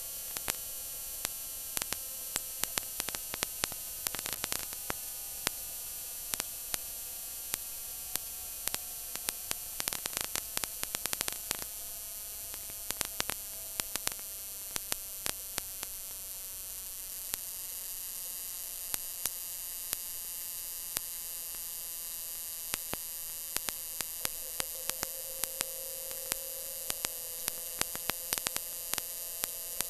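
Stock car's V8 engine running at a steady high speed on the oval, heard inside the cabin through an in-car camera microphone as a distorted, buzzing hum with constant crackling.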